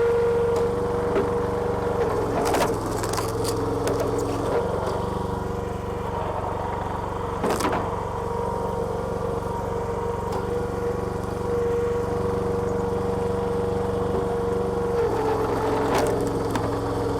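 Small petrol engine of a homemade hydraulic log splitter running steadily, with a steady whine over it; its note changes about two seconds in and again near the end. A few sharp knocks come through over it.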